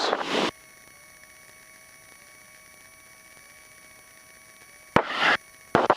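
Cessna 150 cockpit audio carrying a faint steady hum with a thin wavering tone, broken about five seconds in by two short bursts of rushing noise.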